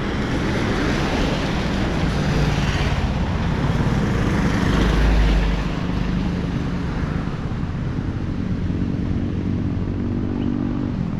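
Road traffic: motor vehicle engines running and passing over a steady hiss of street noise, with one vehicle loudest and lowest about five seconds in.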